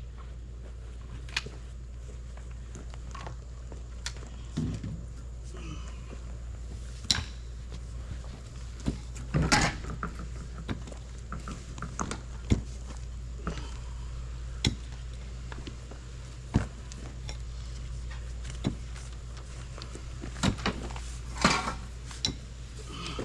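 Irregular clinks, knocks and rattles of items being handled and moved, a few louder clatters among them, over a steady low hum.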